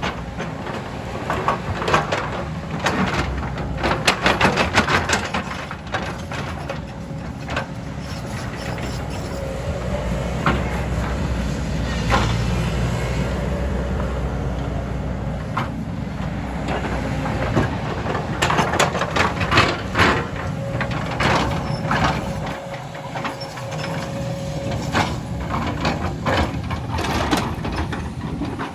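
Excavator's diesel engine running steadily under load, with bursts of sharp knocks and cracks, thickest in the first few seconds and again through the last ten. A faint steady high hum runs through the middle.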